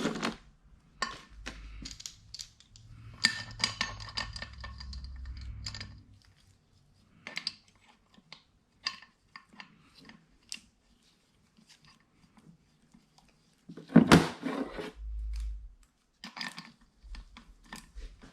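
Metal tools and small valve-train parts clinking and clattering against a cylinder head as its valve springs and retainers are fitted, with a stretch of ringing metallic rattling a few seconds in and a loud knock about fourteen seconds in.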